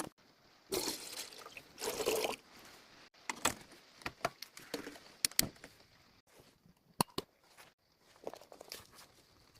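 Water being poured in two short splashes, followed by scattered clicks and knocks of handling, typical of filling a kettle for hot drinks.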